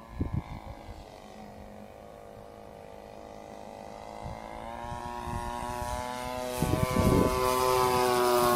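Radio-controlled PT-17 model biplane's motor and propeller droning at a steady pitch, growing steadily louder, with a few low thumps about seven seconds in.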